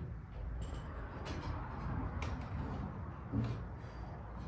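Scattered sharp clicks and knocks over a rustling noise: hands handling and fitting metal bicycle parts, the front wheel and disc brake.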